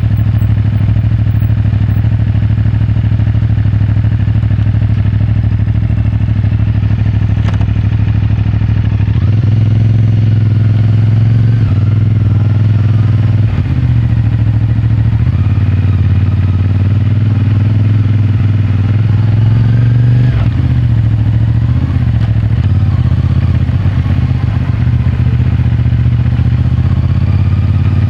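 CFMOTO 450MT parallel-twin engine through its stock exhaust, riding at a steady pace and then revving up and down several times from about nine seconds in, picked up by a microphone in the rider's pocket. A single sharp click comes about seven and a half seconds in.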